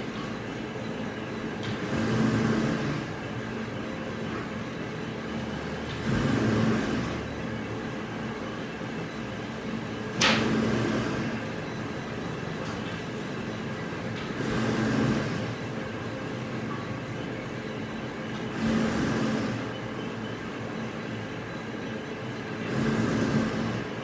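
Plywood factory machinery running with a steady hum, a one-second surge of noise coming back about every four seconds in a regular cycle, and one sharp knock about ten seconds in.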